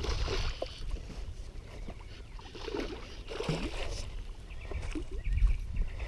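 Water splashing and sloshing as a hooked bass is fought in on the line, with wind rumbling on the microphone.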